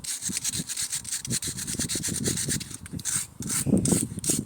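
Stiff brush scrubbed quickly back and forth over car brake parts, a rapid run of scraping strokes as crud and road grime are brushed off.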